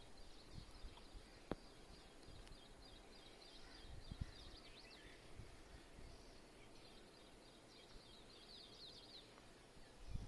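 Faint background ambience with small birds chirping rapidly and repeatedly in high notes, and an occasional soft thump or tick.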